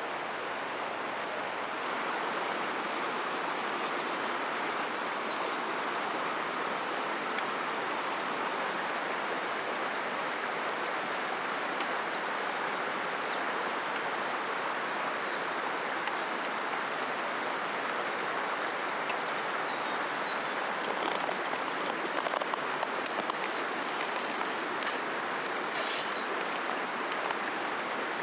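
Steady rush of flowing river water, with a few faint bird chirps in the first half and several sharp clicks later on.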